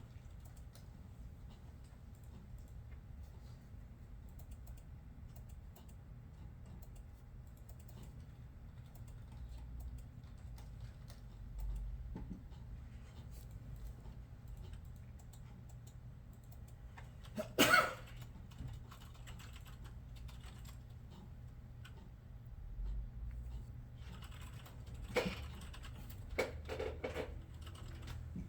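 Computer keyboard typing: faint, irregular key clicks over a steady low room hum, with one brief louder burst of noise about two thirds through and a few sharper knocks near the end.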